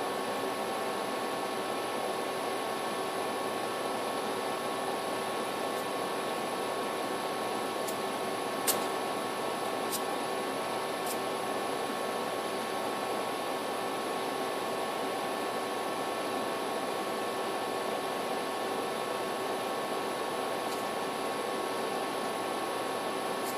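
Steady background hiss with a few faint constant hum tones, such as room or equipment noise. A sharp click about nine seconds in and two fainter clicks soon after.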